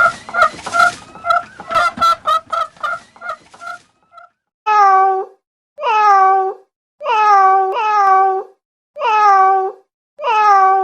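A rapid string of short, pitched calls for the first four seconds. Then a cat meows over and over, about one meow a second, each one falling in pitch.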